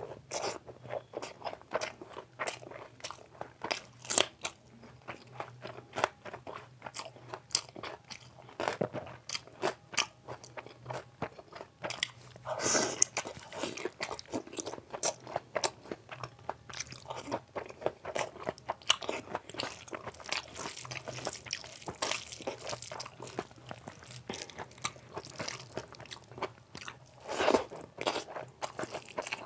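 Close-miked chewing and mouth sounds of a person eating yellow rice and cauliflower curry by hand: a steady string of small wet clicks, with a few louder bites.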